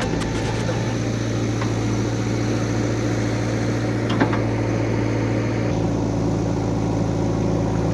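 Diesel engine of heavy earth-moving equipment running steadily at a constant low pitch, with a single metallic click about four seconds in.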